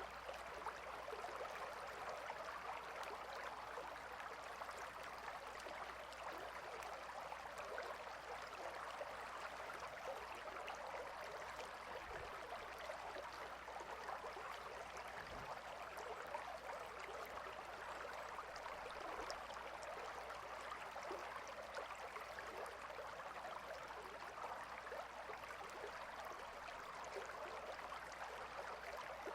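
A gentle river flowing: a steady, faint rush of moving water.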